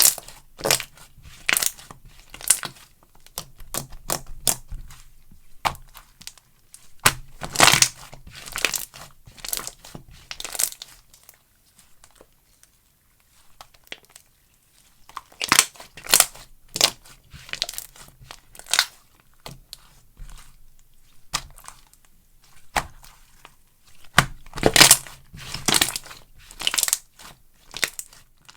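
Slime being squished and stretched by hand, giving irregular sharp pops and crackles in runs, with a short lull about halfway through.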